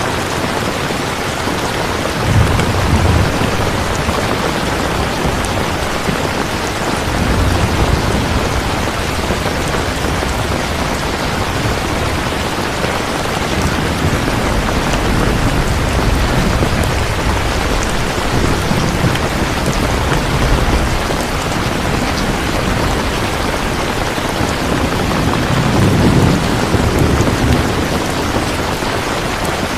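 Steady, dense rain falling, with low rumbles of thunder that swell and fade several times.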